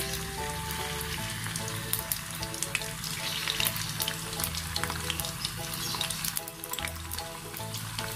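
Raw chicken livers sizzling and crackling in hot oil in a tiny wok as more pieces are spooned in, with frequent sharp pops. Background music plays throughout.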